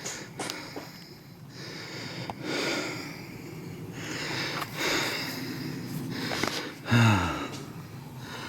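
A man breathing heavily and sniffing close to the microphone, in several slow breaths, with a short voiced sigh falling in pitch about seven seconds in.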